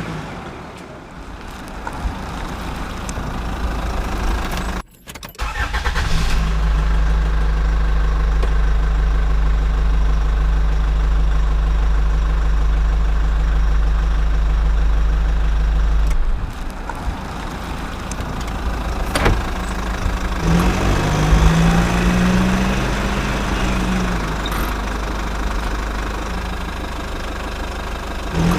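Vehicle engine sound, running steadily with a low drone and broken by abrupt cuts about five and sixteen seconds in.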